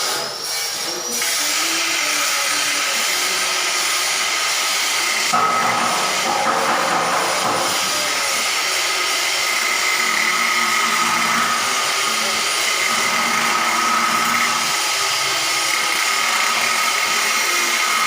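Workshop machinery or a power tool running steadily with a high, even whine, growing fuller about five seconds in.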